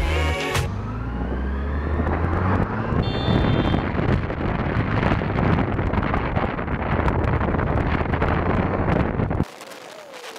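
Motorcycle on the road: loud wind rush over the rider's camera microphone with the engine running, its pitch rising in the first couple of seconds as it accelerates. The noise cuts off sharply about nine and a half seconds in, leaving a much quieter background.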